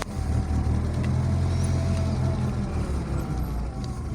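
BMW E36 engine running at a steady idle with its power steering pump now quiet: the whine was caused by a clogged filter in the power steering reservoir, which has been dealt with.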